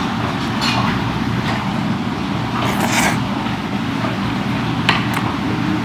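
Steady low rumble of restaurant room noise, with a few soft clicks and mouth sounds of someone chewing sushi close to a clip-on microphone, one slightly sharper about three seconds in.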